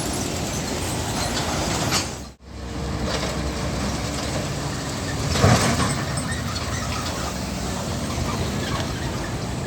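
Steady roar of highway traffic, heavy trucks and cars passing. The sound drops out for a moment just over two seconds in, and a vehicle passes louder about five and a half seconds in.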